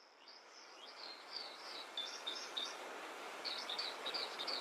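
Birds singing in quick runs of high chirping notes over a soft, steady outdoor hiss that fades in from silence.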